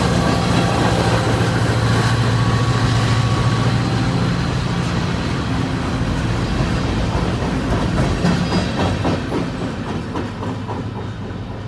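A short train passing and moving away: a low engine hum fades in the first half, then the wheels click rhythmically over rail joints as the sound steadily grows fainter.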